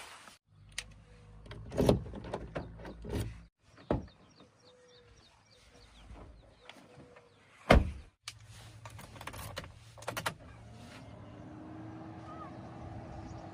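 Heavy machinery running a diesel engine, with loud knocks and clanks in short cut-together clips; near the end the engine note rises and then holds steady.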